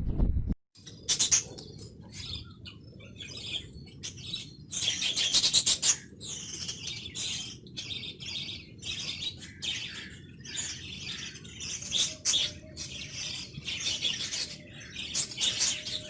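Birds chirping continuously in quick, high-pitched bursts over steady low background noise.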